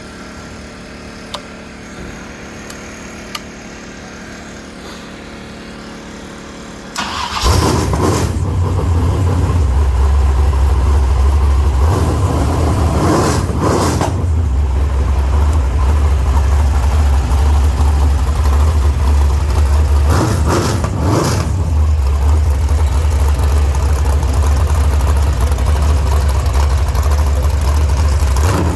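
Race engine being fired up after a repair to its pushrod guide plates: a lower steady hum with a few faint clicks, then about seven seconds in the engine catches and runs loud with a deep, steady throb. It is blipped briefly twice, about halfway through and again a little later.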